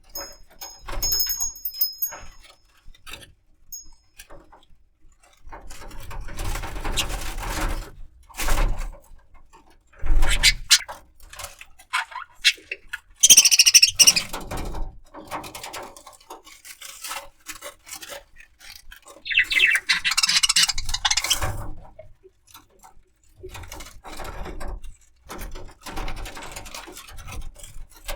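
Pet budgerigar moving about, with a few short high chirps in the first seconds, then scattered rustling and scratching sounds in irregular bursts.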